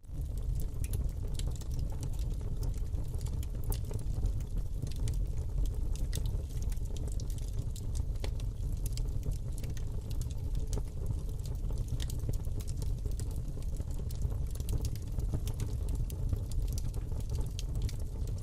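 Wood fire burning in a fireplace: a steady low rumble of flames with dense, irregular crackles and pops from the burning logs, fading in at the start.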